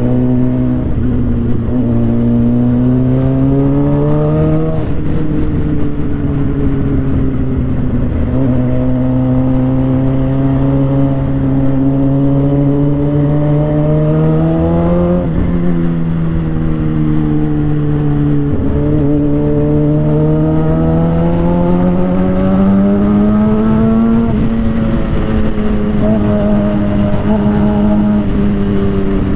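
2007 Suzuki GSX-R 750's inline-four engine through an Orion aftermarket exhaust, ridden on the road. The note climbs and drops again several times, about every three to six seconds, as the bike accelerates, shifts and eases off, with wind rumble over the microphone.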